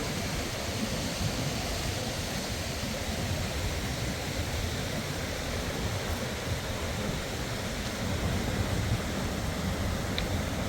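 Steady wind with a fluctuating low rumble from gusts buffeting the microphone.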